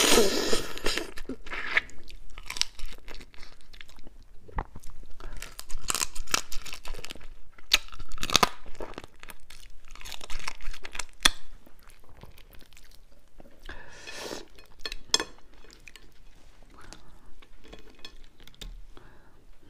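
Crunching and chewing of spicy raw-marinated crab, the shells cracking between the teeth. The sharp cracks come thick in the first half and grow sparser and quieter toward the end, as the crab is pulled apart by hand.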